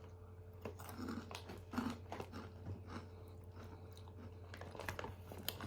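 A person biting and chewing crunchy Flaming Hot Cheetos: quiet, irregular crunches over a steady low hum.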